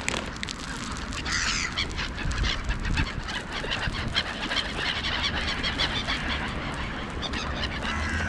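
Several wild birds calling over and over, with a burst of calls about a second in and busier calling in the second half.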